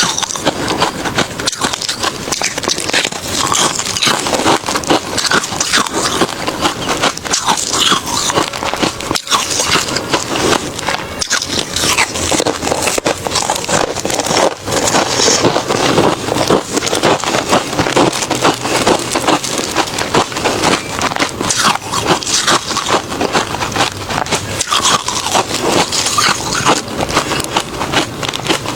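Close-up crunching and chewing of refrozen crushed ice, a dense, continuous crackle of many small cracks and snaps.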